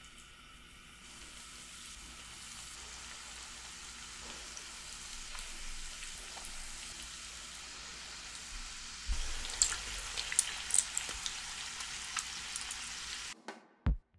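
Breadcrumb-coated cheese hot dogs shallow-frying in oil in a frying pan: a steady sizzle that builds, with sharp crackles and pops from about nine seconds in, cutting off abruptly near the end.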